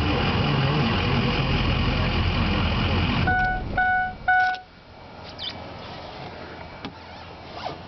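Ford Power Stroke diesel engine idling roughly, the rough idle caused by a failing ICP (injection control pressure) sensor. It shuts off a little over three seconds in, followed by three short, evenly spaced chime beeps.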